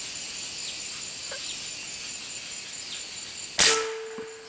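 A single sharp shot from a hunting weapon about three and a half seconds in, loud and sudden, dying away over half a second with a short ringing tone after it. Steady high insect buzz from the jungle underneath.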